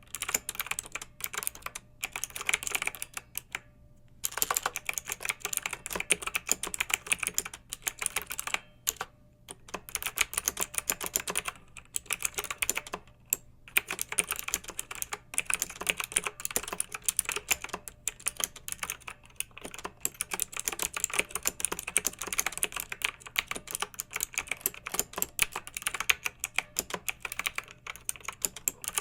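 Clicky mechanical keyboard being typed on: fast runs of sharp keystroke clicks, broken by brief pauses a few times.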